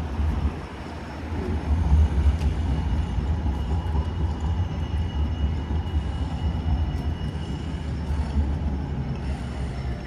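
Steady low vehicle rumble with a faint high whine in the middle.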